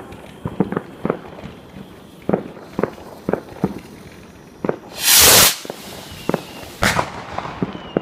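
Fireworks going off: an irregular string of sharp pops and bangs, with one loud half-second blast about five seconds in and another strong bang about a second and a half later.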